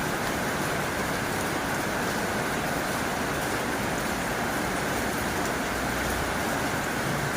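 Heavy rain falling steadily on a tin roof, an even hiss with no single drops standing out. A low rumble builds underneath near the end.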